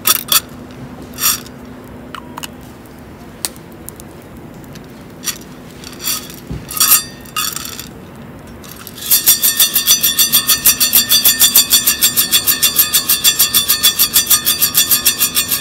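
Metal and glass camp gear clinking a few separate times, then, about two-thirds of the way in, a fast, even rhythmic rattle of about five or six strokes a second that keeps going.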